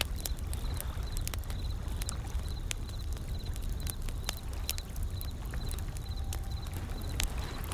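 Wood fire crackling, with sharp irregular pops and snaps, over a steady low rumble of ocean waves.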